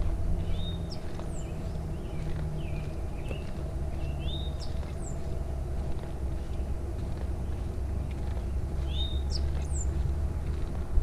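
A songbird calling outdoors, repeating a short whistled phrase with a quick high note about four times, over a steady low rumble.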